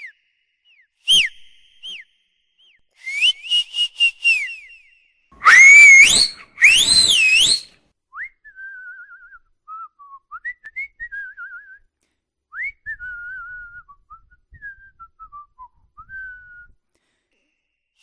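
Whistling: a few short falling whistle notes, then a quick run of chirpy notes. About six seconds in come two loud swooping whistles that rise and fall. Softer, wavering whistled notes follow.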